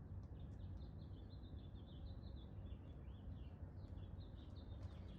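A songbird singing a long, twittering run of quick high notes, starting about half a second in, over a faint steady low hum.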